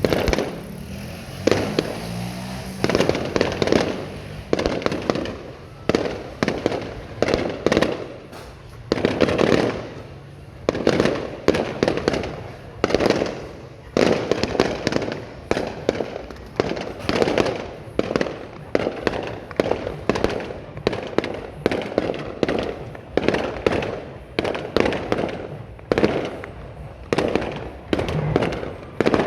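Fireworks display: shells bursting one after another, about one to two bangs a second, each fading off quickly.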